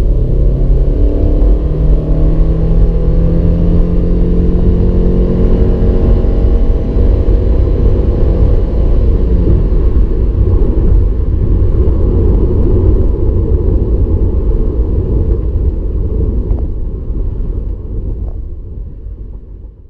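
2015 Subaru Impreza 2.0i-S's 2.0-litre boxer four-cylinder driving through its CVT automatic, the engine note held at a nearly steady pitch over a heavy low rumble. After several seconds the engine tone gives way to the rumble, and the sound fades out near the end.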